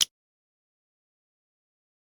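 A single short, sharp click right at the start, then dead silence.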